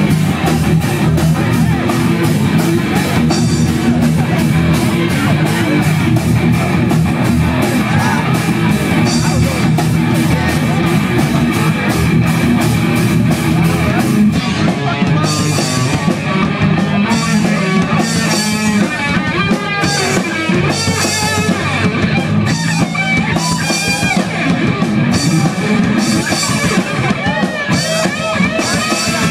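Punk band playing live: loud distorted electric guitar, bass and drum kit, the rhythm changing about halfway through with regular cymbal crashes.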